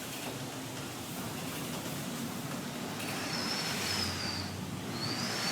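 Hurricane wind rushing steadily. About three seconds in, a thin high whistle starts and wavers, breaks off, then comes back near the end.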